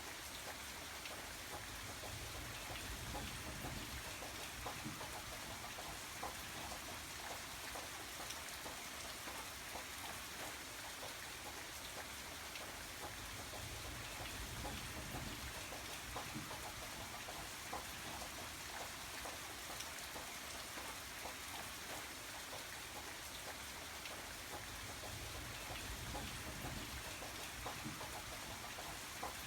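Steady rain falling, an even hiss of many fine drop ticks, with a low rumble that swells and fades every several seconds.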